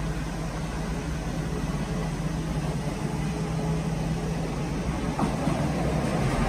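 Steady running noise of a train in motion, with a low hum under it. There is a faint click about five seconds in, and the noise grows a little louder near the end.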